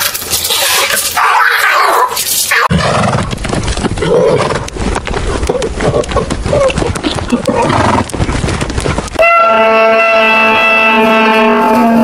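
A horse neighing for several seconds, then, from about nine seconds in, a long steady drawn-out animal call with many overtones.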